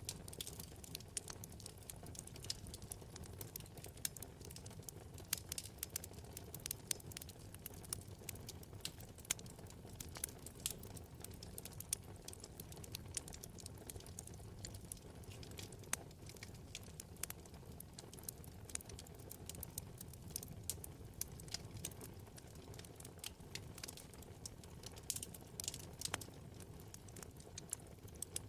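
Wood fire burning in a fireplace: frequent irregular small crackles and pops over a low steady rumble of the flames.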